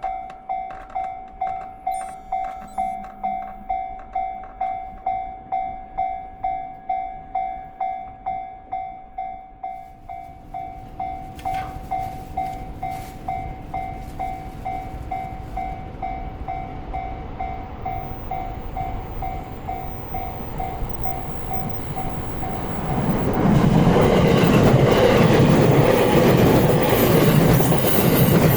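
Railway level-crossing warning bell clanging about twice a second. A train approaches with a growing rumble and passes close by from about 23 seconds in, loud with wheel clatter.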